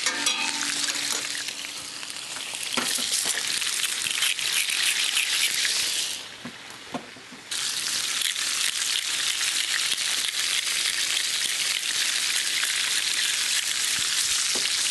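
Blanched carrots and potatoes sizzling and crackling in hot olive oil in a frying pan. The sizzle drops away for about a second and a half around six seconds in, then comes straight back.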